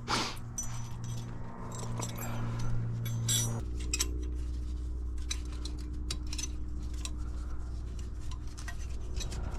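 Light metallic clinks and taps as new brake pads and their metal hardware are handled and fitted into the caliper bracket, over a steady low hum that drops in pitch about three and a half seconds in.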